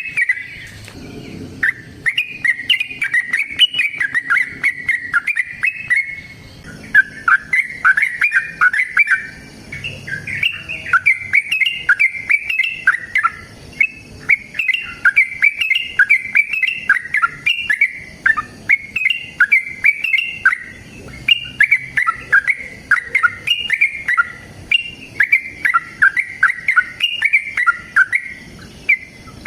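Yellow-vented bulbul (trucukan) singing a long, near-continuous run of rapid, bubbly, warbling phrases, broken only by a short pause about a second in.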